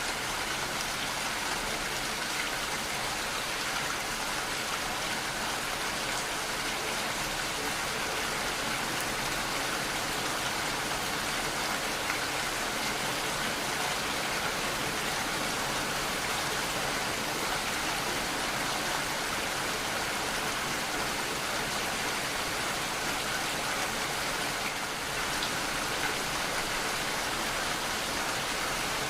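Steady rainfall, an even hiss of rain on surfaces without let-up.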